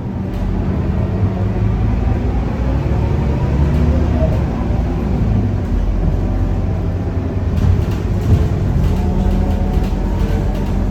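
Scania K230UB bus's diesel engine running under load, heard on board, its pitch rising slowly as the bus pulls. Clicks and rattles come through in the second half.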